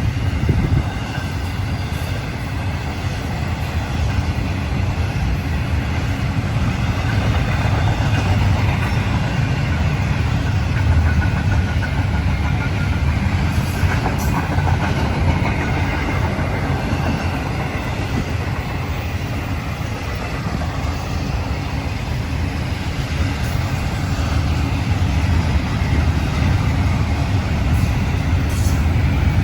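Florida East Coast Railway train rolling past, a steady low rumble with the clatter of wheels on the rails that keeps on without a break.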